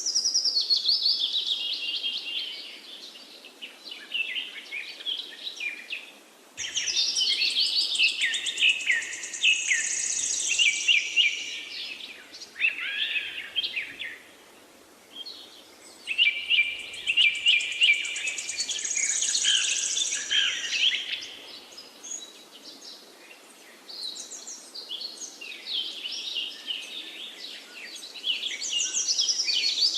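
Songbirds singing: long, rapid, warbling phrases of several seconds each with short quieter pauses between them.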